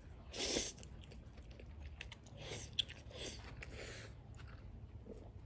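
Close-miked mouth sounds of a person eating pasta with meatballs: a louder intake of noodles about half a second in, then soft wet chewing, with one sharp click near the middle.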